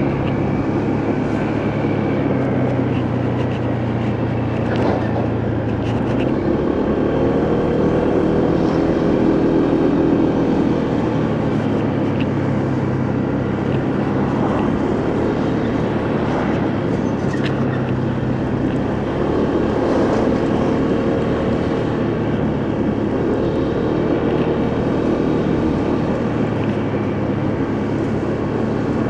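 Motorcycle engine running on the move, its note shifting up and down with throttle and gears, over steady wind and road noise.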